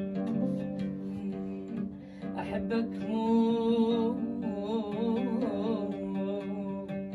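A plucked string instrument playing an instrumental introduction. About three seconds in, a wavering melodic line with vibrato joins over it.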